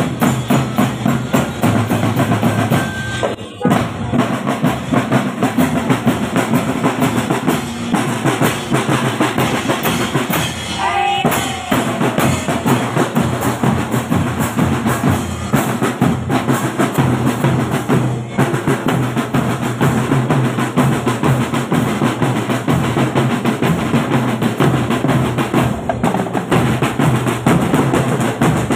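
Marching drum band playing a loud, fast, continuous beat on snare drums and bass drums, with rolls.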